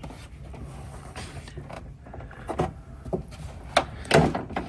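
Plastic interior door panel of a 1998 Dodge Ram 1500 rubbing and scraping against the door as it is pushed into place, with several sharp knocks and clicks as its Christmas-tree push clips are forced into their holes, the loudest a little past four seconds in.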